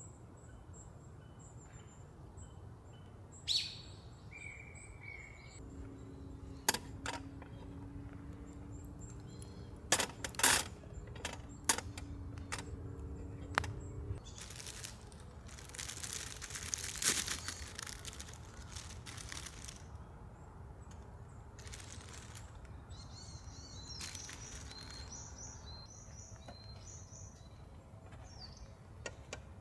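Outdoor ambience with small birds chirping and calling. A handful of sharp clicks or snaps come in the middle, then a few seconds of rustling noise.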